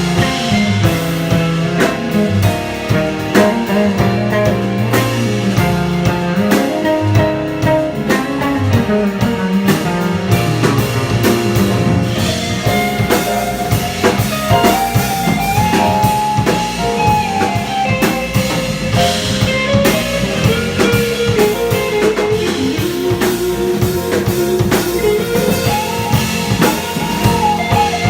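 Jazz band playing live: an electric guitar carries a melodic line over bass and a drum kit.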